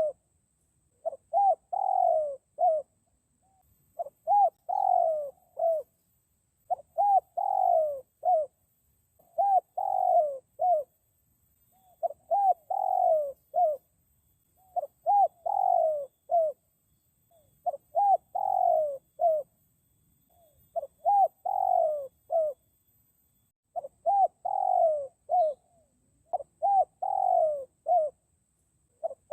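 Spotted dove (dekukur) cooing: the same phrase of several coos, one of them longer and louder, repeats about every three seconds with silent gaps between. This is the call used to lure wild doves.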